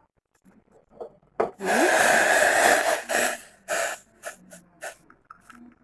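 Freshly boiled green tea poured from the pan through a strainer into a cup: one steady pour of about a second and a half, then a few short splashes as the stream trails off.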